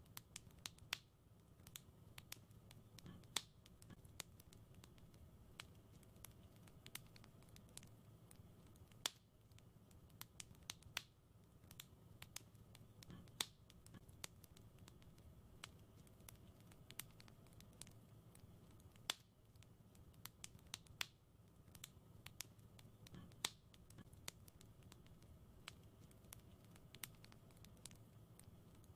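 Fireplace wood fire crackling quietly: irregular sharp pops and snaps, several a second, with a handful of louder pops among them.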